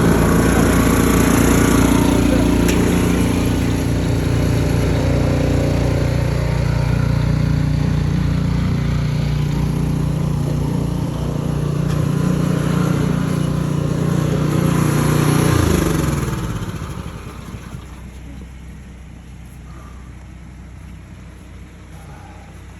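An engine running steadily, then winding down with a falling pitch and stopping about sixteen seconds in.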